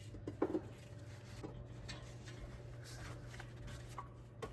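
A few light metal clinks and taps from a pry bar being worked against the engine and transmission, the loudest about half a second in, over a steady low hum.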